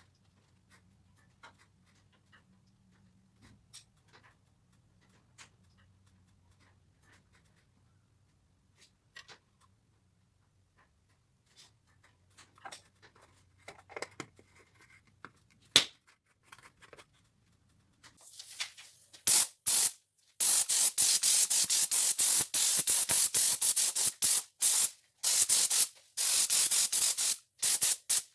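A few soft clicks and taps over a faint low hum, then pressurised spray hissing loudly in on-and-off bursts from about 18 seconds in.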